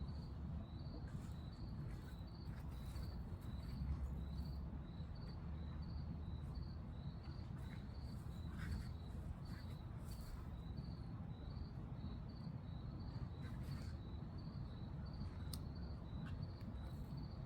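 A cricket chirping steadily, about one and a half high chirps a second, over a low rumble and a few faint scrapes.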